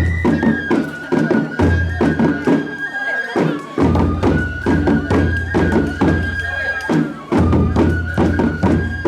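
Japanese festival music: a bamboo flute plays long, sliding held notes over low drum beats and many quick, sharp percussion strikes.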